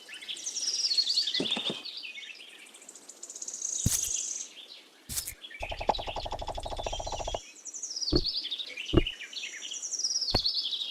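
Small birds chirping and singing in quick falling trills. A buzzy, low droning call runs for about a second and a half midway, and a few sharp clicks sound through the second half.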